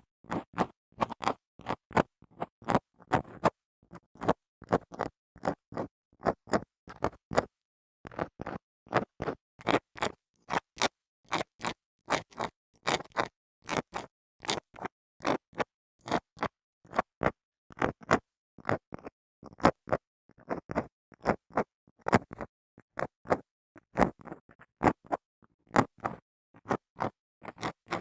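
Small grooming items, such as a comb or brush, scraped across a microphone in short, quick strokes, about two to three a second, with a brief pause partway through.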